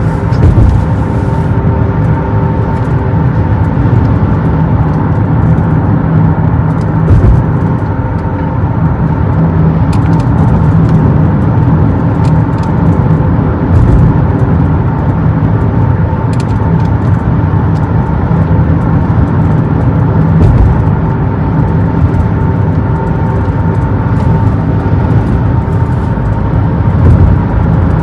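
Steady road noise of a car driving at speed, heard from inside the car: a continuous rumble of tyres and engine with a faint steady hum above it.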